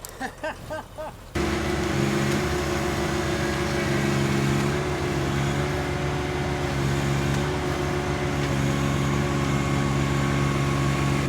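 An engine starts up suddenly, about a second in, and runs steadily at a constant speed with a low, even drone.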